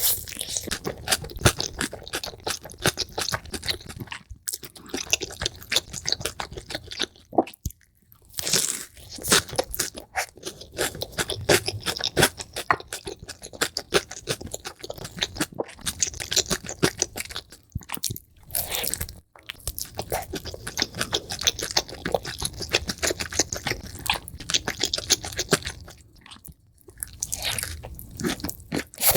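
Close-miked chewing and biting of crunchy food in quick, dense crunches, played sped up, with brief breaks every few seconds where one clip cuts to the next.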